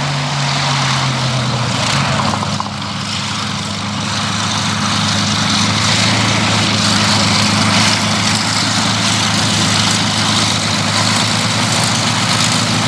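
Rolls-Royce Merlin V12 piston engine of a Hawker Hurricane running steadily, a low drone with a brief dip in level about two and a half seconds in.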